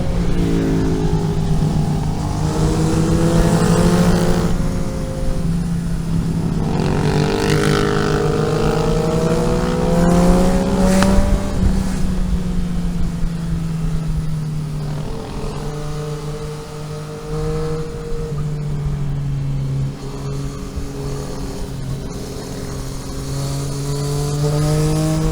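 Car engine pulling on the road, its revs climbing twice and dropping back, then holding steadier at a lower pitch.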